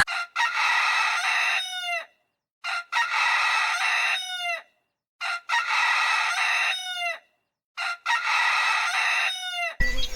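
Rooster crowing four times, each crow identical and about two and a half seconds apart, with dead silence between. The sound cuts off just before the end.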